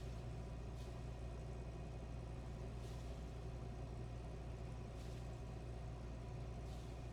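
Sailboat's inboard engine running steadily under way, a constant low drone, with faint swishes coming about every two seconds.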